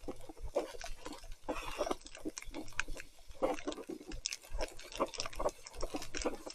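Mountain bike riding through wet mud: an irregular run of squelches, crackles and small splashes.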